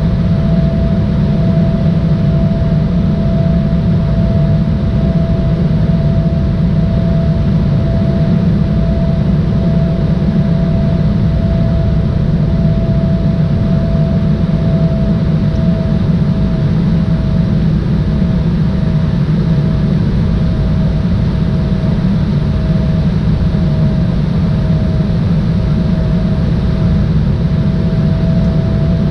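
Steady cabin noise of an Embraer 175 airliner under way: the rumble of its two GE CF34-8E turbofan engines and the rush of air, heard from a seat near the wing, with a steady whine that sags slightly in pitch about two-thirds of the way through.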